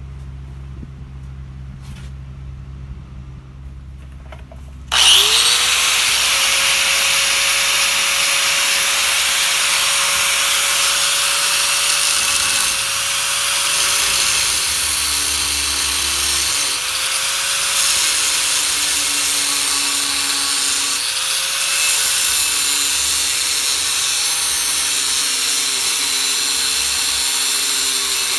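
An angle grinder spins up about five seconds in and grinds steel with a loud, steady hiss over its motor whine. The whine sags briefly a few times as pressure goes on, and a low hum is heard before it starts.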